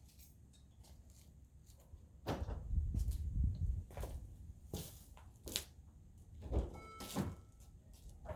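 A low rumble lasting under two seconds, then a handful of sharp clicks and thumps, like a car door and interior being handled.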